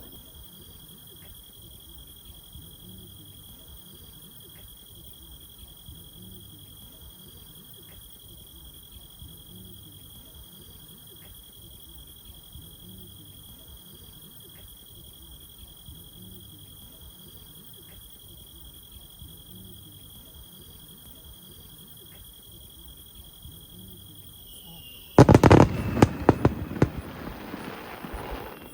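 Insects chirring steadily and quietly in a lull. Near the end, fireworks suddenly burst loudly overhead in a rapid run of bangs and crackling.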